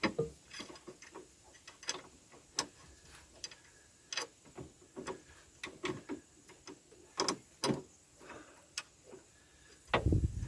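Irregular clicks and light metallic knocks of hand tools and parts being handled while bolting a panel inside an excavator cab. A louder low rumble starts right at the end.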